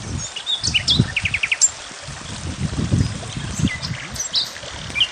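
Small songbirds chirping and calling outdoors. Among the short calls is a quick trill of five or six rapid notes about a second in, and another starts near the end.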